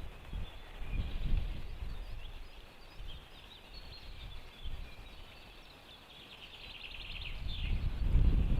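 Wind gusting against the microphone, swelling near the end, while wild birds chirp with high notes and give a quick rapid run of notes near the end.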